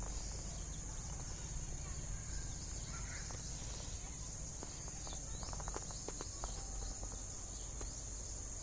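Steady high-pitched drone of insects, such as crickets or cicadas, over a low background rumble, with a run of faint clicks a little past halfway.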